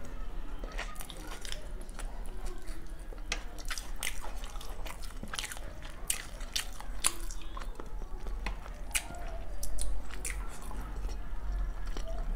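Close-miked chewing of a mouthful of biryani, with many sharp, wet mouth clicks and lip smacks at irregular intervals.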